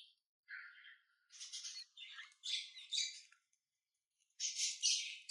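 Small pet parrot giving harsh, raspy squawking calls in several short bursts, with a pause about three and a half seconds in and louder calls near the end.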